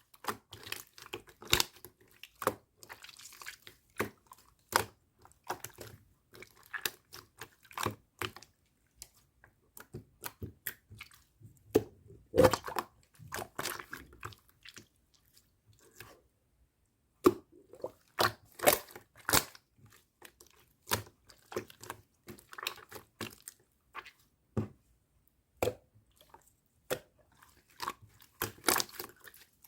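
Pearl slime being squished and pressed by hand, making irregular sticky clicks and little pops of trapped air. There is a pause of about two seconds a little past the middle.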